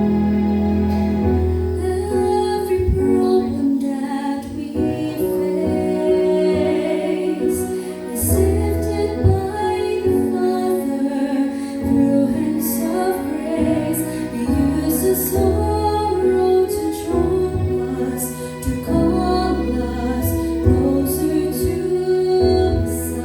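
A woman singing a Christian song over instrumental accompaniment, her held notes sitting above a sustained bass.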